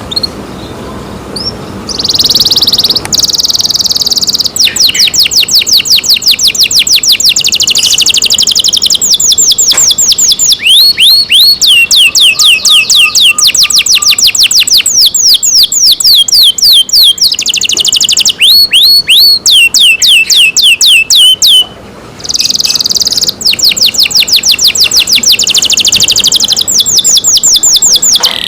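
Domestic canary singing loudly: a long song of rapid trills, each a fast run of repeated high notes, some sliding down in pitch. There is one brief pause about 22 seconds in.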